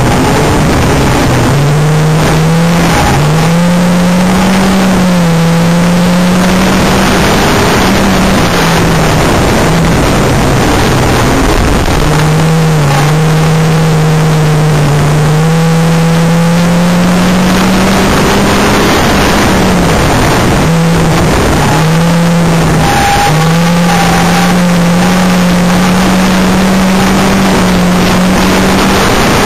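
Banger racing car's engine heard from inside the car at racing speed, loud throughout. Its pitch climbs as it accelerates and drops briefly several times as the driver lifts off for the corners.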